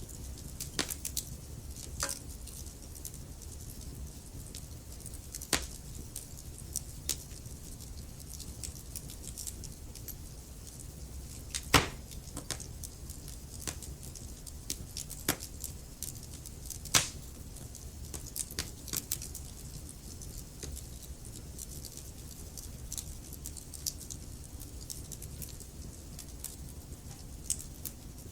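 Wood fire crackling in a fireplace: irregular sharp pops and snaps over a steady low rumble of flames, with a few louder pops near the middle.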